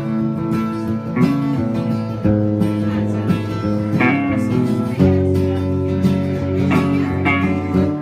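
Acoustic guitar strumming the opening chords of a country song, the chords changing every second or two.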